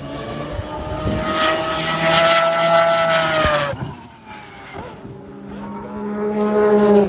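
Historic IMSA GTP prototype race cars passing at speed. One car's engine note holds high and loud, then falls away suddenly about four seconds in. A second car's engine swells louder toward the end.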